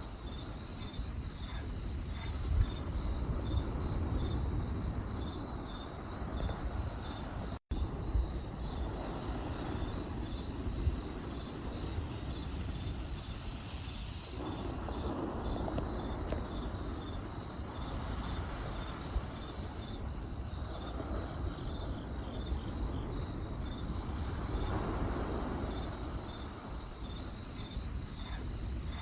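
Campfire crackling with a few sharp pops over a rushing wash that swells and fades, under a steady high chirping of crickets. A split-second dropout cuts the sound about eight seconds in.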